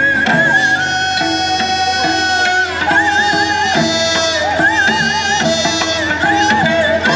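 Korean traditional music played live: two held melodic lines that waver with wide vibrato and slide between notes, over regular drum strokes.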